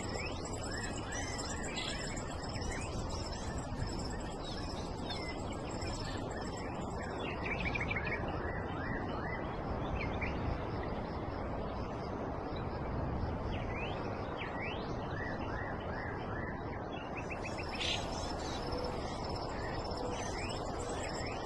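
Outdoor ambience: birds chirping in short calls now and then over a steady background hiss, with a thin, steady high tone throughout.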